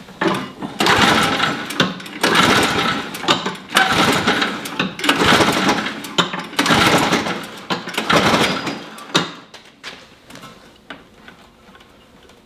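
Toro snow blower's small engine running rough, its sound surging up and down in waves of about a second each, then dropping away about nine seconds in. The erratic running comes from a plugged main jet in the carburetor.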